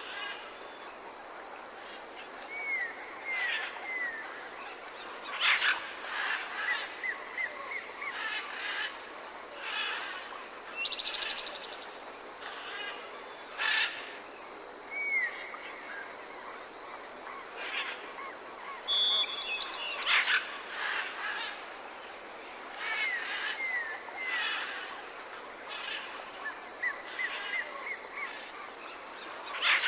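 Birds chirping and calling: short chirps, curved whistled notes and quick trills over a faint steady hiss. The same run of calls comes round again about every 20 seconds.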